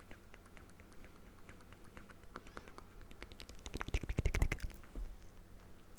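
Close-miked ASMR clicks and light taps, irregular and small. About three and a half seconds in they thicken into a quick flurry with a low thump, the loudest part.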